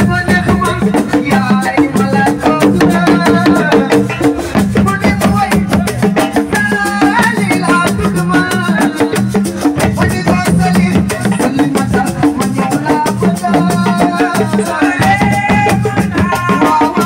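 Live assiko band music: dense, fast drumming and percussion with a melody moving over it, loud and unbroken.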